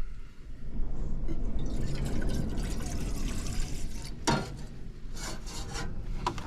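Water pouring and sloshing into a cooking pot, with a few sharp knocks near the end.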